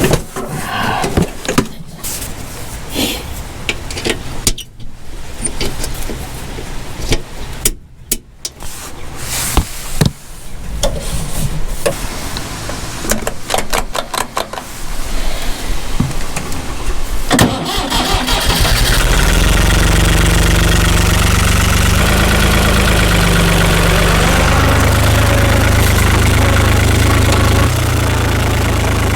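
Oliver farm tractor's engine starting: irregular knocks and clatter for most of the stretch, then about 17 seconds in the engine catches and runs steadily, its level dipping a little near the end.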